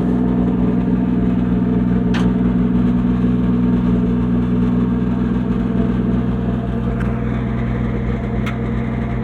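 A 1966 Chevy C10's 250 inline-six engine idling steadily, with two faint clicks about two seconds in and near the end.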